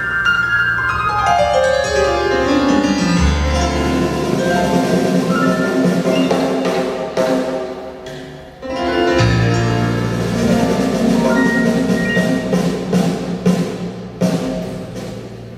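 Live instrumental band music led by piano with percussion. It opens with a fast descending run into a deep low note. About eight and a half seconds in the music briefly thins, then the full band comes back in.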